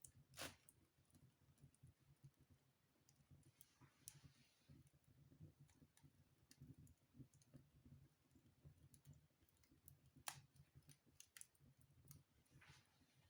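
Wood fire in a fireplace crackling faintly: scattered sharp pops and snaps, a louder one near the start and another about ten seconds in, with two brief hisses.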